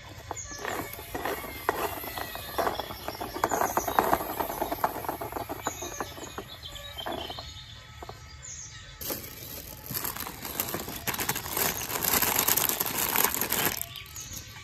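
Plastic toy vehicles being handled and played with: many small clicks and rattles, then a stretch of steady rushing noise from about nine seconds in that stops shortly before the end.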